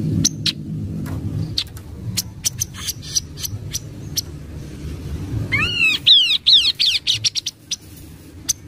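Kaso-kaso bird calling: scattered sharp chips, then about five and a half seconds in a quick run of some eight rapid arched whistled notes, over a low steady rumble.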